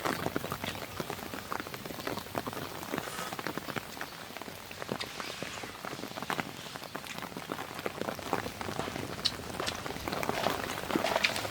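Rain falling steadily, a dense stream of irregular close drop impacts.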